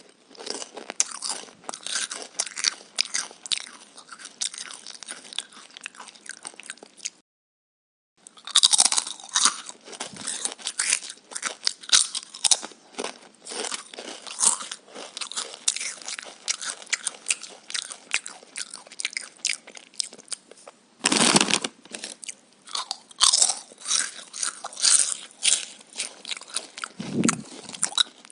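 Close-up crunching and chewing of crisp vegetables, irregular bites and chews throughout. The sound drops out completely for about a second around seven seconds in, and a few heavier bites stand out later.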